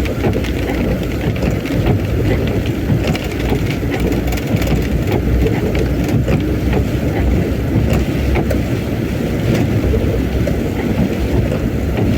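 Heavy rain and strong wind, a steady loud rumble with wind buffeting the microphone and scattered raindrop ticks.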